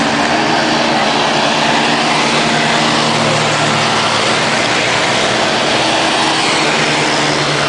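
Motorcycle engines running with a steady low hum under loud, even rushing noise.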